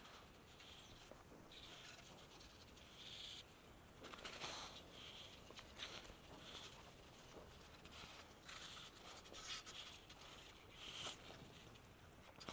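Near silence, with faint scratchy rustling and a few soft clicks.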